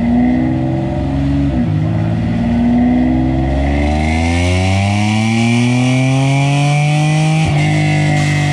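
Car engine and exhaust revving under load on a chassis dyno, the pitch climbing steadily through a pull. There is a short break about one and a half seconds in and another near the end, after which it holds steady at high revs.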